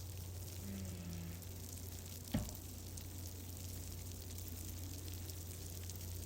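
Wood fire crackling steadily with faint ticks, over a low steady rumble, with one sharp, loud pop a little over two seconds in.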